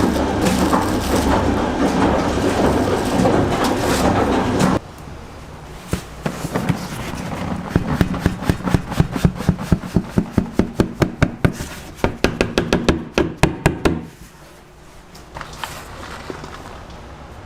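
A loud, steady rushing noise that cuts off suddenly about five seconds in, followed by a run of quick, sharp knocks, about three a second, that stops a few seconds before the end.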